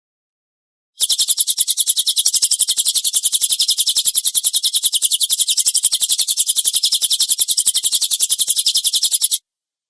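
Recorded bird-training call: a harsh, rapid-fire 'tembakan' call in the cililin style, a fast even stream of scratchy high notes at about ten a second. It starts about a second in and stops suddenly near the end.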